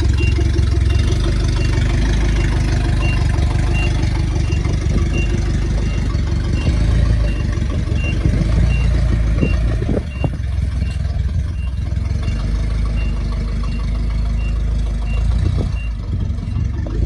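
A vehicle's engine running steadily under a reversing alarm that beeps evenly, about one and a half beeps a second, until near the end.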